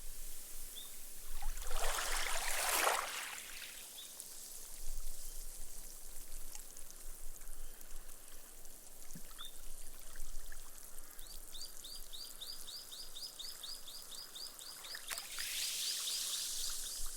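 Gentle small waves washing up a sand beach and hissing as the water and foam soak into the sand, one wash swelling about two seconds in and another near the end. About eleven seconds in, a bird starts a rapid trill of short high chirps, about four a second, lasting some six seconds.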